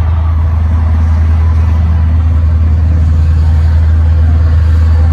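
Helicopter noise: a loud, steady low drone with a rapid beat.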